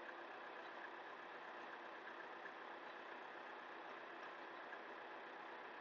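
Faint, steady drone of the RK55 tractor's Yanmar diesel engine idling.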